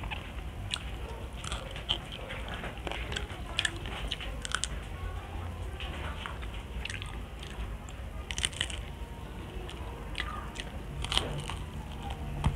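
Close-miked chewing of crispy fried tilapia eaten by hand, with irregular crunches and clicks.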